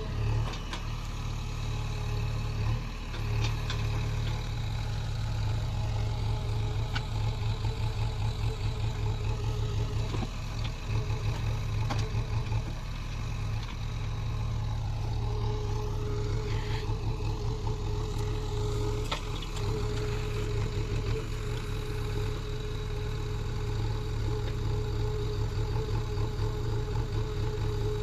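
Heavy diesel engine of the earth-moving machinery running steadily with a pulsing low throb; a steady whine joins it about halfway through.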